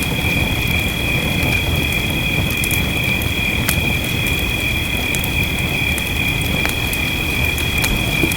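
Wood fire crackling with scattered sharp pops over a steady bed of rain, with a constant high-pitched ringing tone on top.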